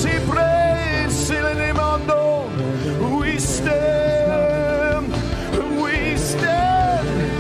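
Live worship music: a voice singing long held notes over instrumental backing.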